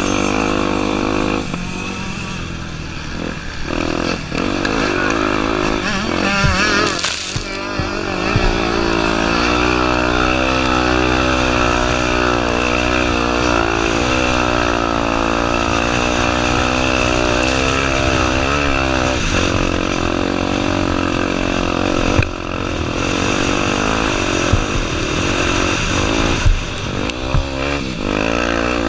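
Honda Tornado 250's single-cylinder engine running under constantly changing throttle off-road, its pitch rising and falling as it revs and drops. A few sharp knocks break in, one about a quarter of the way in and more near the end.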